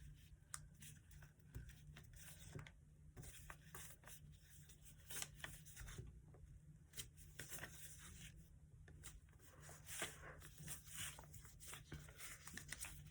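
Faint rustling and crinkling of a paper sheet being folded by hand, with scattered light clicks and scrapes as a crease is pressed in, over a steady low hum.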